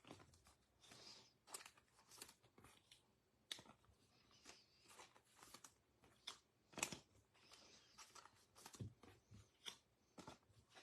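Faint handling of trading cards: scattered light clicks and brief rustles of card stock being slid and turned over.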